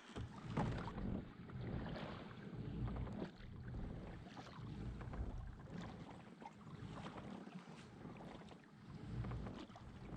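A kayak on the water: small splashes and water sounds from the paddle and hull, with uneven low buffets of wind on the microphone.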